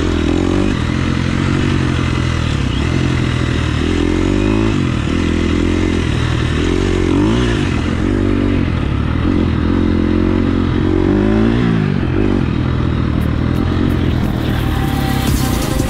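KTM 350 SX-F's single-cylinder four-stroke engine being ridden hard, revving up and falling back again and again, with the pitch rising and dropping every second or two.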